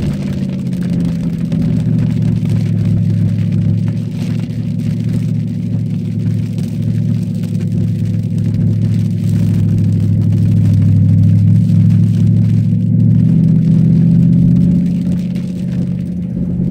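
Cadillac STS-V's supercharged V8 running at steady revs, its note growing louder past the middle and dropping to a different pitch about thirteen seconds in.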